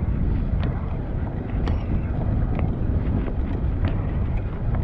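Wind buffeting the microphone on a moving bicycle: a steady low rumble with scattered light clicks and rattles.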